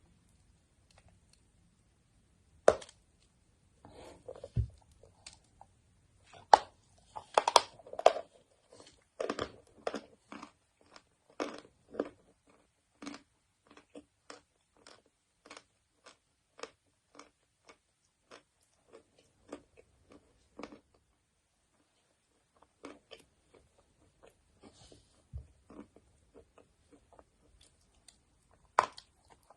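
Chalk being bitten and chewed close to the microphone. A sharp snap of a bite is followed by a run of crisp crunching, which thins into single chewing crunches about two a second, with another sharp bite near the end.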